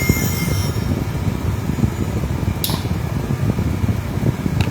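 Steady, loud machine rumble with no clear rhythm, and a brief high hiss about two and a half seconds in.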